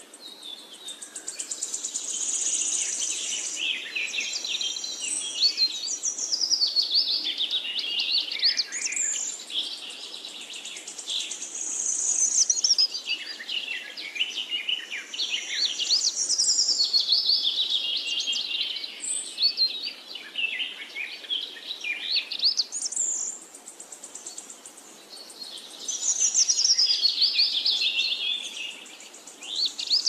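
Songbirds singing in quick, overlapping phrases of chirps, trills and whistles, with a brief lull about two-thirds of the way through.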